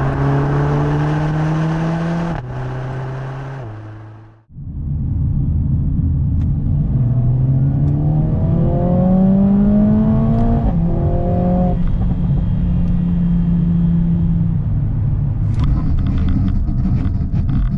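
Mercedes-AMG A45 S's 2.0-litre turbo four-cylinder accelerating hard, its pitch rising and then stepping down at two quick upshifts of the dual-clutch gearbox. The sound cuts off abruptly about four seconds in, then picks up again with another rising pull and an upshift around ten seconds in, followed by a steady cruise. A patter of sharp clicks comes near the end.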